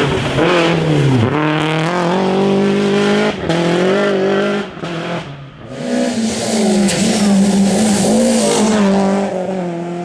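Rally car engine at high revs, its pitch climbing and dropping with gear changes and throttle lifts. The sound falls away briefly a little past halfway, then comes back strongly.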